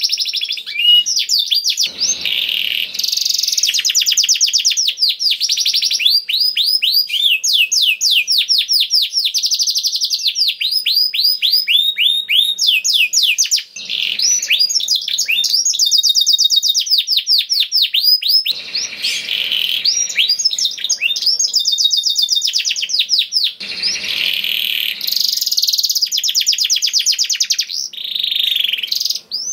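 Domestic canary singing continuously in long, loud, rapid trills of fast repeated high sweeping notes, shifting from one rolling phrase to the next with only a brief pause about halfway through.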